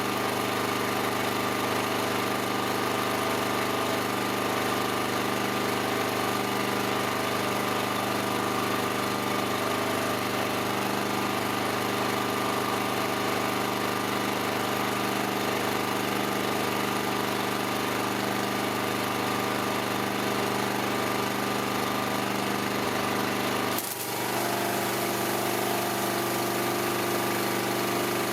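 A motor or small engine running steadily at constant speed, with a brief break about 24 seconds in, after which its pitch is slightly different.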